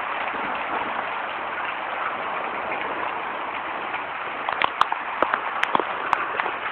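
Hail falling in a dense, steady patter, with sharper separate hailstone strikes cracking on a hard surface from about two-thirds of the way in.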